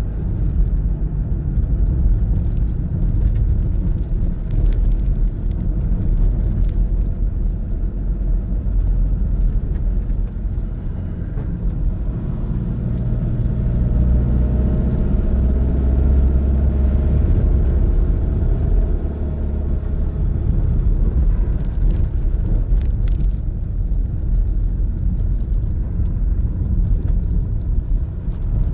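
Car driving: a steady low rumble of engine and road noise, growing a little stronger around the middle.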